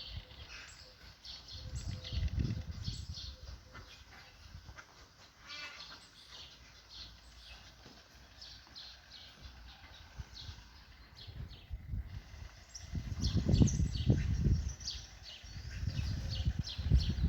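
Birds chirping over and over in short high notes, with bursts of low rumble on the microphone, loudest about thirteen seconds in and again near the end.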